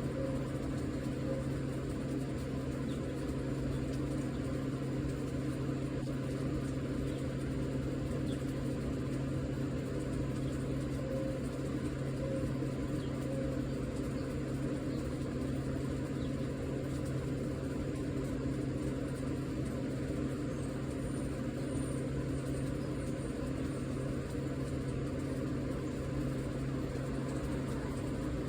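Steady low mechanical hum, unchanging throughout, with a few faint high chirps about two-thirds of the way in.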